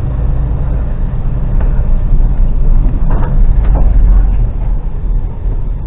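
Articulated lorry's diesel engine running steadily under load with a low drone, heard from inside the cab as the truck pulls up a steep hill.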